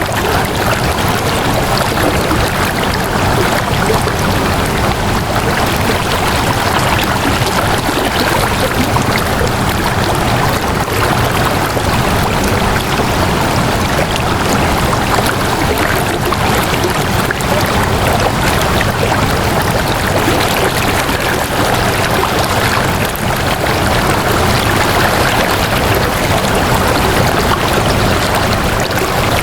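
Steady, unbroken rush of flowing water, like a stream running, AI-generated, holding an even level throughout.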